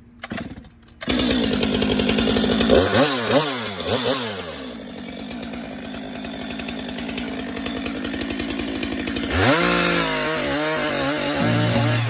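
Stihl 462 two-stroke chainsaw starting up about a second in, then blipped up and down in revs a few times and running on, with another rev-up near the end.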